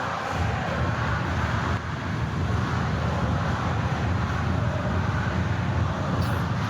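Steady crowd din with a heavy low rumble, the sound of a packed indoor sports hall during a futsal match.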